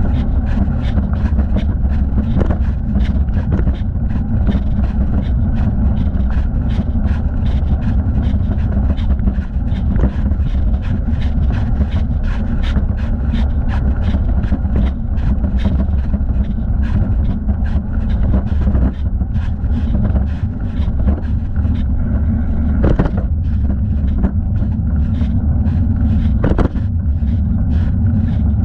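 Steady low rumble of wind and tyres on a moving bicycle, heard through a camera strapped to the rider's thigh, with a constant run of small clicks and rattles from the bike.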